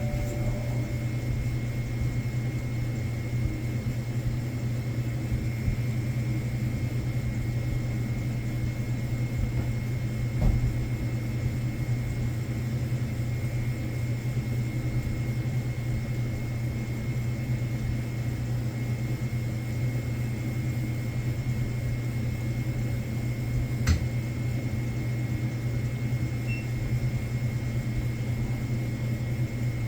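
Steady low machine hum with a thin, constant high whine above it, broken twice by a single brief knock, once about ten seconds in and once near the end.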